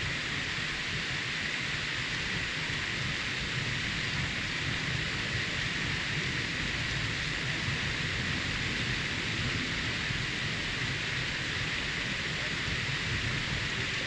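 Steady heavy rain hissing without a break, with a low rumble underneath and no distinct thunder claps.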